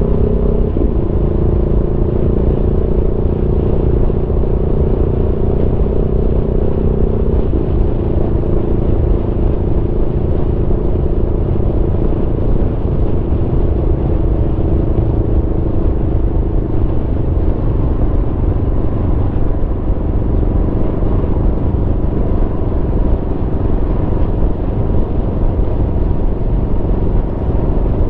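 Aprilia Tuono V4's V4 engine running under way, mixed with a heavy low wind and road rumble on the microphone. The engine's pitch shifts about a second in and again around seven seconds in, after which the engine sinks under the wind rumble.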